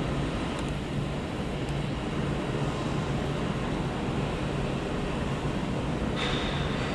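Train standing or moving slowly, a steady low hum over a bed of noise. A faint high whine comes in near the end.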